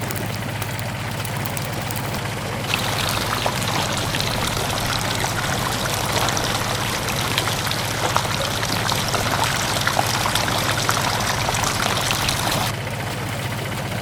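Something being poured, pattering with many small clicks like grit or a wet mix running out, over a steady low motor-like hum. The pouring starts about three seconds in and stops shortly before the end.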